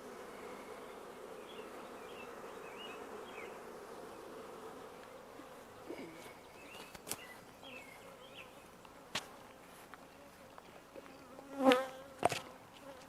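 Honey bees buzzing in the air around an opened hive, a steady hum that thins out about halfway through. A few sharp clicks and a louder knock near the end.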